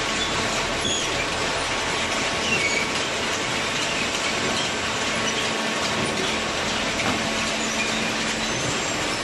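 Cardboard baler running: a steady mechanical noise with faint, brief high squeaks.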